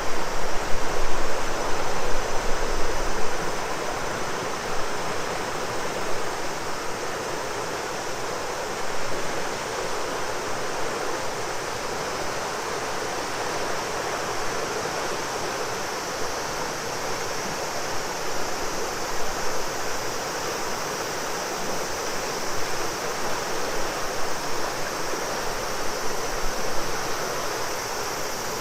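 A river rushing and flowing steadily, with cicadas droning in a continuous high band above it. Wind buffets the microphone with a low rumble during the first three seconds or so.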